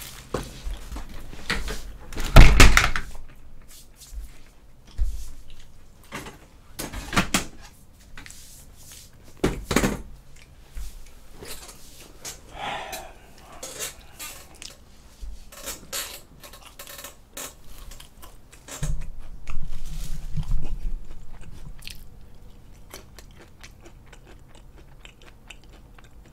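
Chewing and crunching on fried chicken, made up of many small crunches and bites. Several louder knocks fall in the first ten seconds, the loudest about two and a half seconds in.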